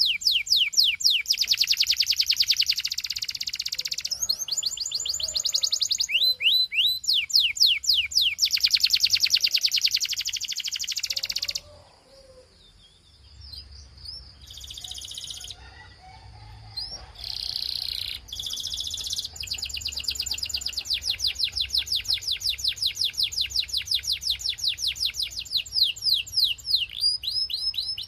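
Belgian canary singing in fast trills of repeated sweeping notes. It breaks off about twelve seconds in, gives a few short phrases, then starts a long trill again about twenty seconds in.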